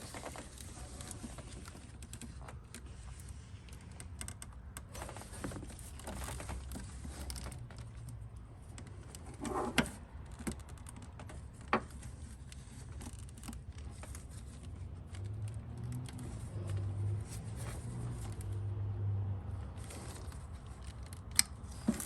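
Hand tools and small engine parts being handled: scattered light clicks and rattles, with a few sharper clicks, while an ignition coil is worked loose on a V8.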